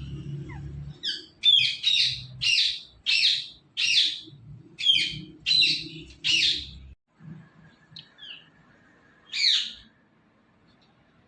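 Pet green parrot giving a quick run of about nine sharp, shrill calls, roughly two a second, then a pause and one more call later on.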